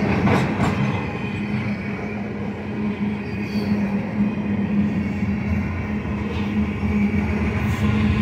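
Freight train of ethanol tank cars rolling past at trackside: a steady rumble of steel wheels on the rails with a constant low hum, and a few wheel clicks over rail joints near the start.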